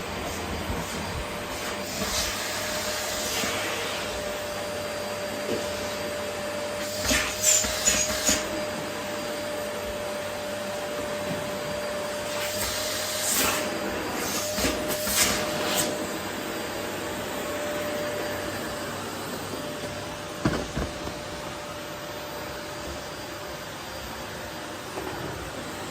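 Vacuum cleaner running steadily over a floor, its motor holding one constant whine. Several brief louder rushes break in through the first sixteen seconds, and a single knock comes about twenty seconds in.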